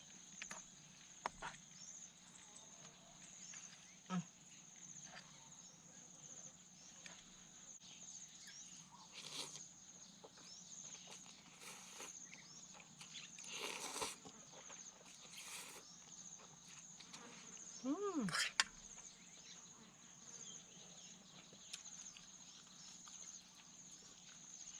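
Steady high-pitched chirring of insects, with scattered soft clicks and a few brief noisy rustles.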